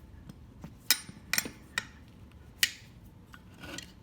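Four sharp metallic clinks and knocks at uneven intervals, then a softer one near the end, as metal tire-changing tools and the bead lock knock against the dirt bike's wheel rim while the bead lock is worked into place.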